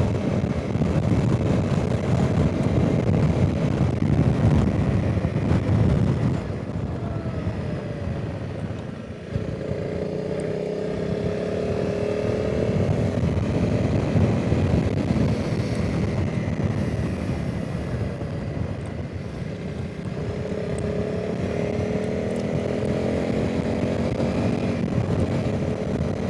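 Honda CRF300 Rally's single-cylinder engine on the move, under heavy wind rush on the helmet microphone. The engine note drops away about eight or nine seconds in, then climbs as the bike accelerates, and climbs again a second time in the last few seconds.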